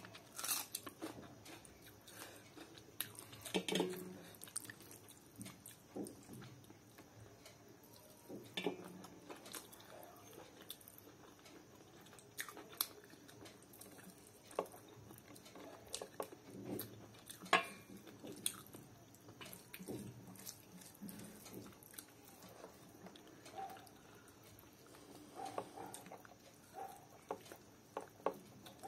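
Close-up chewing and biting of rice and chicken curry eaten by hand, with irregular short wet clicks from the mouth.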